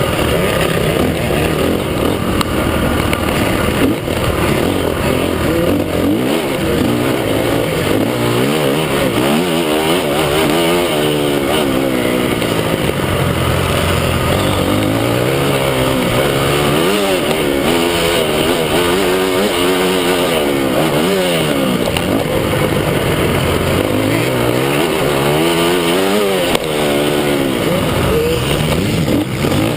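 Several motocross bikes running on a track, engines revving up and dropping back over and over as they accelerate and change gear, their sounds overlapping.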